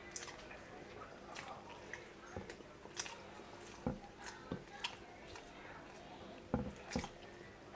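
Close-up eating sounds: chewing, with soft wet mouth squishes and scattered short clicks, irregular and a few seconds apart at most.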